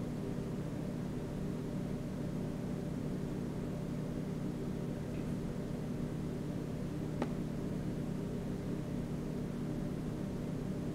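A steady low mechanical hum, with one short click about seven seconds in.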